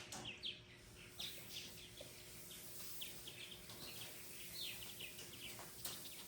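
Faint bird chirping: a steady run of short, quick, falling chirps.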